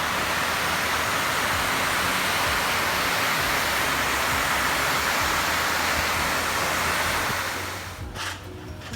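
Heavy rain pouring down as a loud, steady hiss that fades out near the end.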